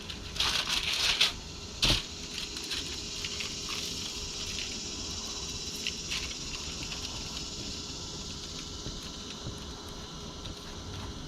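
Seasoning being shaken and worked onto a fish fillet by hand: a few short rattling shakes in the first two seconds, then small rustles over a steady faint hiss.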